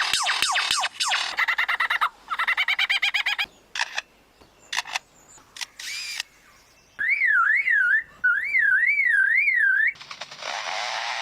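Lyrebird giving a medley of mimicked calls. It opens with a quick run of downward-sweeping whistles, then rapid repeated notes and a few sharp clicks. About seven seconds in comes a siren-like warbling tone that rises and falls several times, and near the end a harsh, steady noisy sound.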